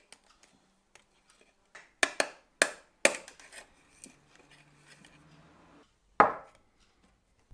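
Sharp knocks and taps of hard parts or tools against a workbench: a quick run of four about two seconds in, faint scraping after them, and a single louder knock near the end.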